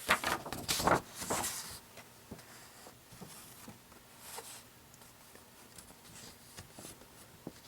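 Paper brochure being handled and its pages turned, with several crisp rustles in the first two seconds and then faint, occasional paper handling sounds.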